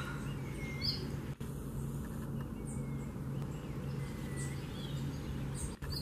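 Scattered short, high bird chirps and call notes from a small songbird, over a steady low background rumble.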